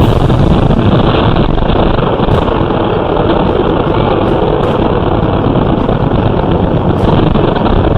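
Loud, steady noise of a vehicle on the move: engine and road noise with no break.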